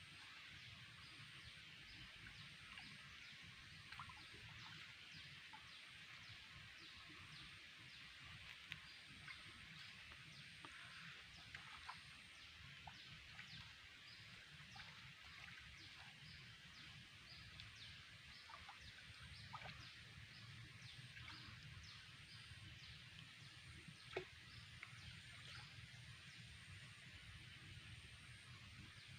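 Near silence: faint outdoor ambience, a steady high hiss with scattered short high ticks or chirps and a low rumble underneath.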